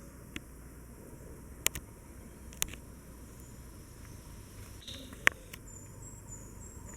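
Quiet jungle background with a few sharp isolated clicks, the loudest about five seconds in, and faint high insect chirping that starts near the end.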